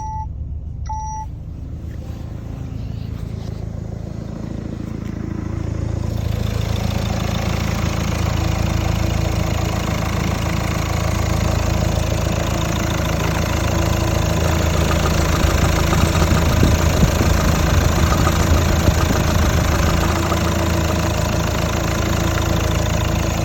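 Citroën 1.5 HDi four-cylinder diesel engine running steadily at idle, growing louder over the first several seconds. A couple of short electronic beeps sound right at the start.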